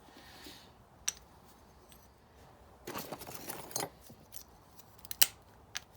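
Motorcycle brake pads and small metal parts handled by hand: a sharp click about a second in, a scraping rattle around the middle, and a louder sharp click near the end with a smaller one just after.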